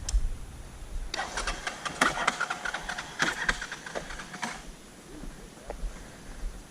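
Enduro motorcycle engine being cranked for about three and a half seconds, turning over unevenly without catching, then stopping. The carburetted engine is flooded and the battery is running down.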